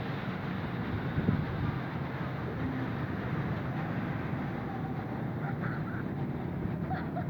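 Steady road traffic noise, a low, continuous rumble of passing vehicles, with a brief louder bump about a second in.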